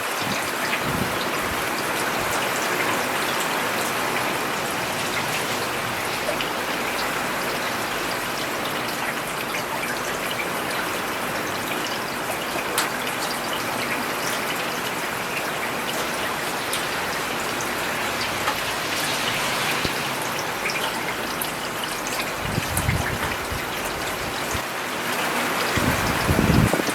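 Steady rain falling on a paved road, with drops pattering and splashing close by. Twice near the end a low rumbling swell rises briefly under the rain.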